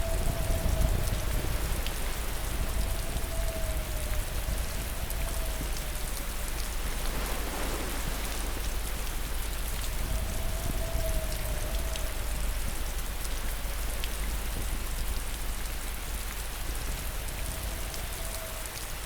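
Steady rain falling and pattering on a surface. A faint wavering tone comes and goes over it several times.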